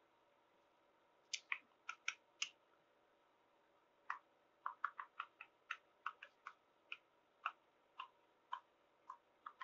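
About twenty short, sharp clicks starting a little over a second in and coming at irregular intervals, some in quick runs of two or three, over a very quiet background.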